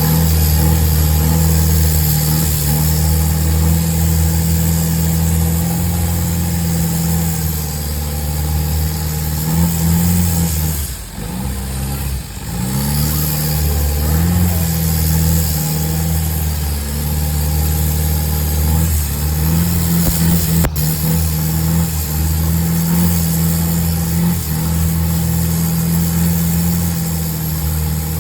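Boat engine running steadily under way, easing off briefly about eleven seconds in and then picking back up.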